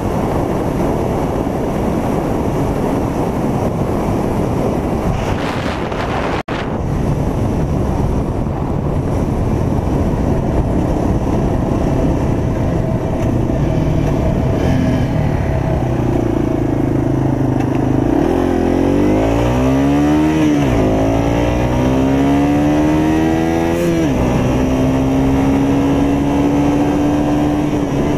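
Yamaha TW200's single-cylinder engine running under heavy wind noise on the microphone; past the halfway mark the engine revs up, drops with a gear change, climbs again and shifts once more before settling to a steady pitch.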